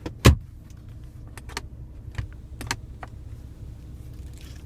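A sharp thump of the center console storage compartment lid in a car interior, followed by several light plastic clicks and taps as the lid and trim are handled.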